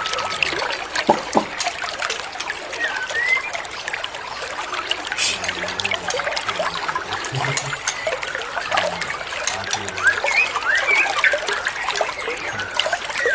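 Water trickling and splashing in a steady patter of small drips, with a few short chirped bird notes a few seconds in and again near the end.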